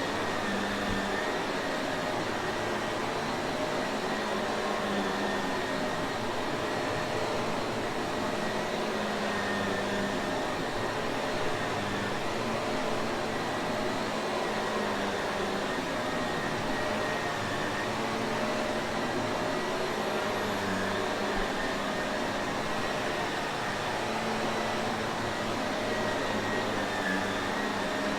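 Shark Navigator upright vacuum cleaner running steadily: an even rushing hum with a thin steady whine riding on it.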